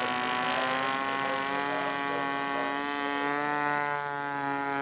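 Radio-controlled scale model airplane engines running in flight, a steady buzzing drone with slight shifts in pitch. A second, lower engine tone joins about three seconds in.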